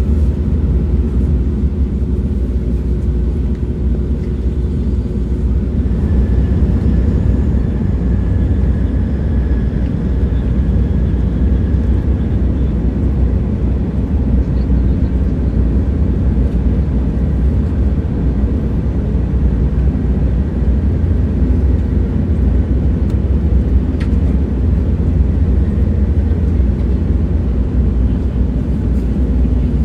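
A train running steadily, a continuous deep rumble with a faint high whine that comes in a few seconds in and fades after about six seconds, and a single light tick near the end.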